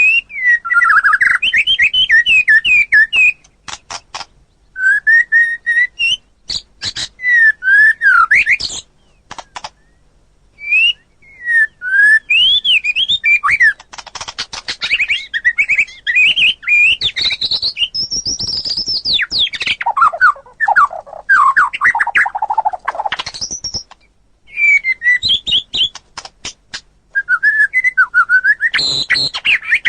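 White-rumped shama (murai batu) singing loud, varied phrases of whistled notes that swoop quickly up and down, mixed with rapid clicking notes. The phrases are broken by short pauses.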